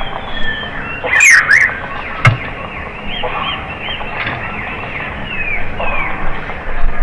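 Small birds chirping and calling, many quick rising and falling notes one after another, with a single sharp knock about two seconds in.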